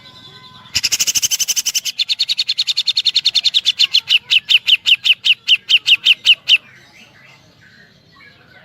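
Cucak jenggot (grey-cheeked bulbul) singing a loud, rapid woodpecker-style 'tembakan' rattle. A dense buzzing trill about a second in slows into a string of sharp, evenly spaced notes, about five a second, then stops abruptly, leaving faint chirps.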